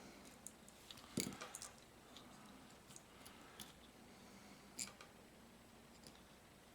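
Faint, scattered clicks and ticks of small motor parts and tools being handled while a model locomotive's motor is taken apart, with a sharper click about a second in and another near five seconds.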